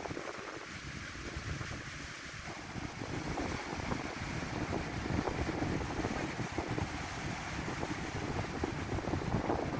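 Wind buffeting the microphone over the wash of sea waves, a little louder after about three seconds.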